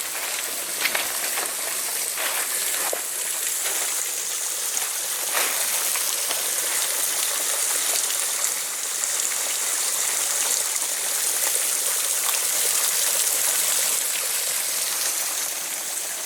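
Small trackside waterfall splashing and rushing steadily.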